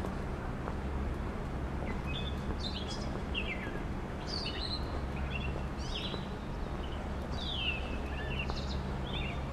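Small birds chirping in short, quick calls that slide downward in pitch, starting about two seconds in and repeating throughout, over a steady low hum.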